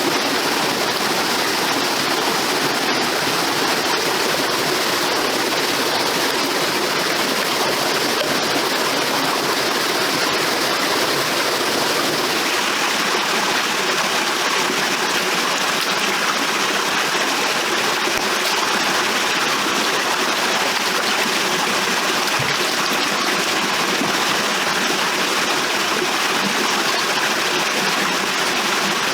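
Steady rushing of a stream's flowing water, even and unbroken throughout.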